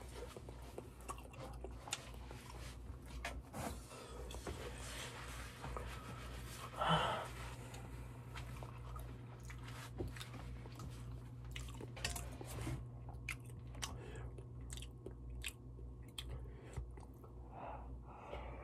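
A person chewing and eating malatang close to the microphone, with many small wet mouth clicks over a faint steady low hum. There is a brief louder sound about seven seconds in.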